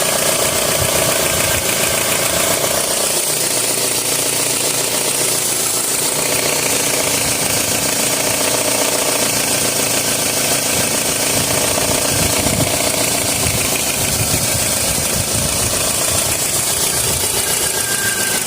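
2003 Toyota RAV4 engine running steadily with a continuous hiss and a fast rattle.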